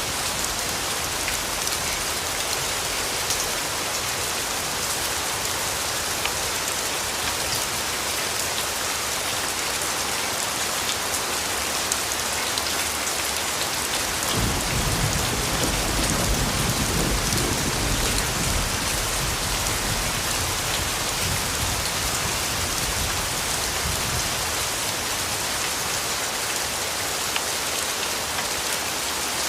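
Steady rain falling, with a roll of distant thunder about halfway through that starts abruptly and fades over several seconds.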